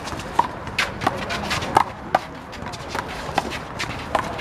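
Rubber handball being struck by hand and rebounding off the wall and court during a one-wall handball rally: a series of sharp slaps at irregular intervals.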